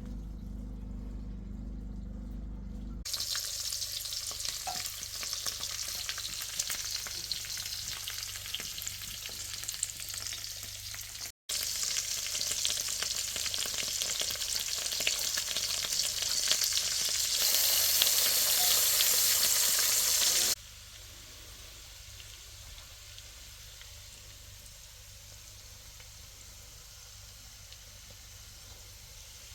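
Food sizzling and frying in a pan, a steady hiss that grows louder toward the middle and then drops to a quieter sizzle. A low steady hum comes before the sizzling starts, a few seconds in.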